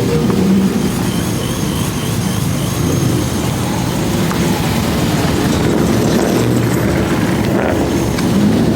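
Car engine running with a steady low drone, picking up a little in pitch near the end.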